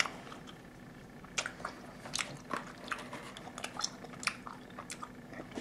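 A person chewing a milk chocolate salted toffee caramel with the mouth close to the microphone: a string of faint, irregular clicks.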